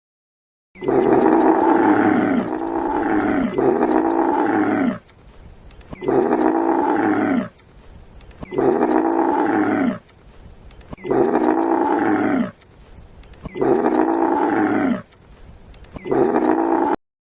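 A large animal calling loudly over and over: about seven long pitched calls, each rising and falling, with short quieter breaths between. It starts about a second in and stops abruptly.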